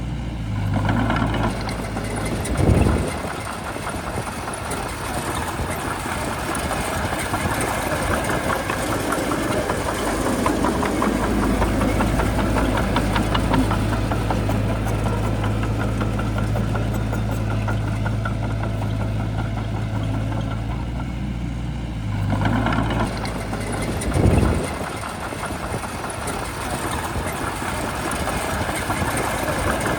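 Shantui bulldozer's diesel engine running, working harder for a moment twice, with a loud short thump a few seconds in and again near the end.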